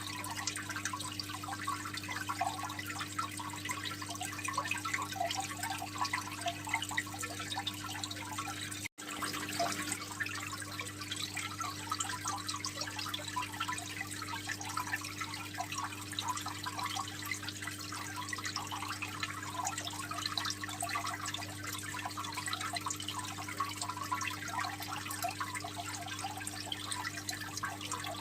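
Water trickling and splashing steadily in an aquarium, over a steady low hum. The sound drops out for an instant about nine seconds in.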